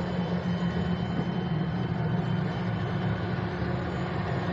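Suzuki Cultus engine idling steadily, a constant low hum, while it is checked for a coolant leak.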